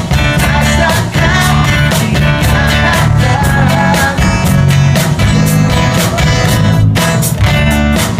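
Rock band music with guitar, bass and drums keeping a steady beat.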